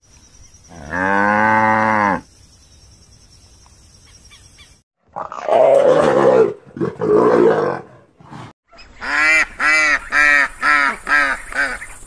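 A cow mooing once, a low call a little over a second long; then a rough growl in two parts; then mallard ducks quacking, a quick run of about eight quacks.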